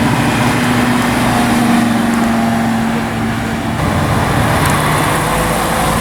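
Car engine running with a steady hum that ends a little past halfway, with other engine and road noise carrying on.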